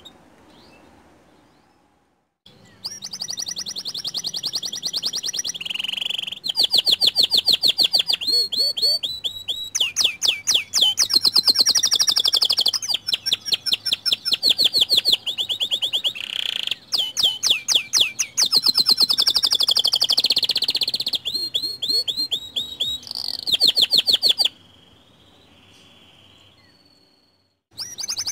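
White domestic canary singing: long phrases of fast trills and rapidly repeated notes, with short breaks between phrases. The song stops for a few seconds near the end.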